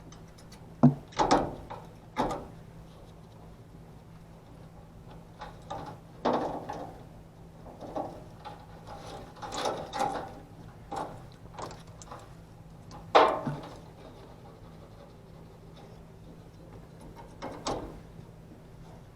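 Irregular knocks, clicks and rattles of tools and parts being handled during work on an HVAC unit, with sharp knocks about a second in and again about 13 seconds in, over a faint steady low hum.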